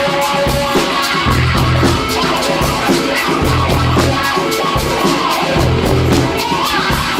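Rock band music with a steady beat: drums with a busy hi-hat, electric guitar and a repeating bass line.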